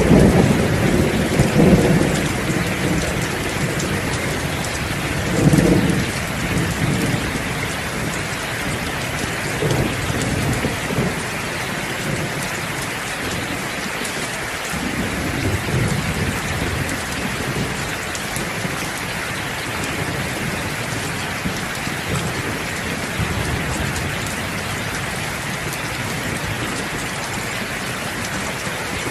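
Steady heavy rain with rolling thunder. The loudest rumble comes right at the start, and lighter rolls follow a few times over the next quarter minute.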